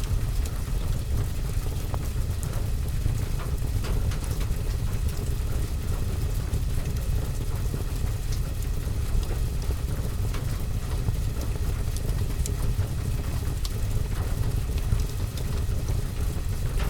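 Rain on a window and roof mixed with a fire burning in a fireplace: a steady low rumble under an even rain hiss, with scattered sharp crackles and drop ticks.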